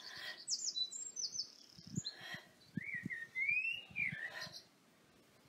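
A garden songbird singing: a rapid run of high chirps, then a longer whistled phrase that rises and falls about three seconds in. A few soft low thumps come around the middle.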